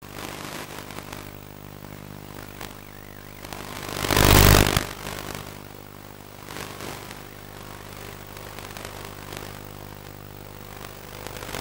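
Radio-controlled model aeroplane's motor running steadily, heard through the onboard camera, with a loud rush of noise about four seconds in.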